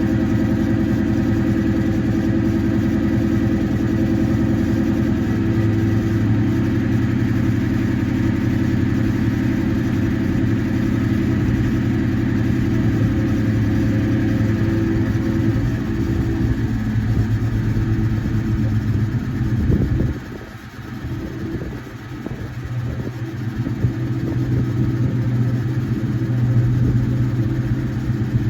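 Ford Mustang GT's V8 running steadily under way; about two-thirds of the way through the engine note drops off sharply, then builds back up as the car pulls again.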